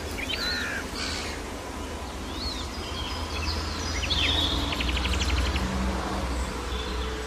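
Small birds chirping in short, repeated arched calls, with a fast rattling run of clicks about four and a half seconds in, over a steady low rumble.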